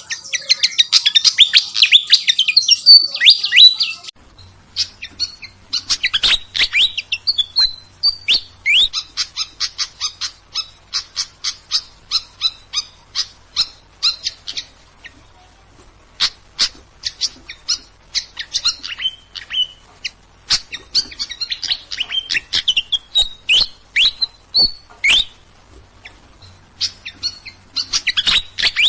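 Songbird singing: rapid runs of sharp chirps and short rising and falling whistles, in bursts separated by brief pauses, densest in the first few seconds.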